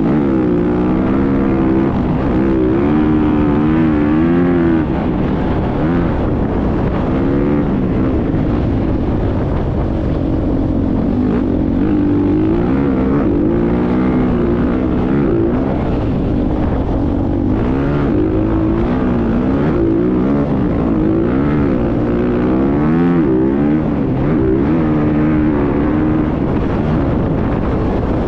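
Motocross dirt bike engine being ridden, its pitch rising and falling again and again as the throttle is worked, over a constant low rumble.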